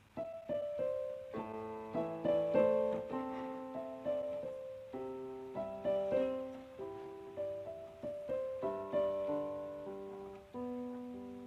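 Solo piano background music: a gentle melody and chords of struck notes that ring and fade, with a brief dip shortly before the end.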